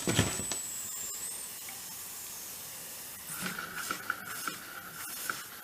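Small vertical model steam engine running on compressed air at low pressure, about 3 PSI, with a steady hiss of air. Faint ticks come in from about halfway through as the pressure nears the point where the engine stops running.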